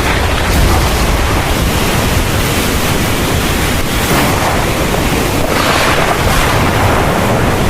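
Heavy rain pouring steadily in a thunderstorm, over a continuous deep low rumble, the rain hiss swelling louder briefly about halfway through and again a little later.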